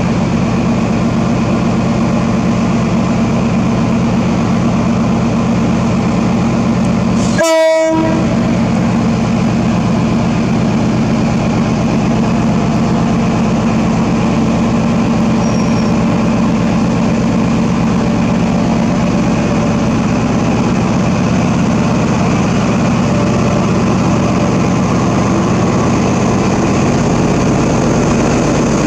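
XPT diesel power car's engine running steadily as the train pulls out of the platform, with one short horn blast about seven and a half seconds in.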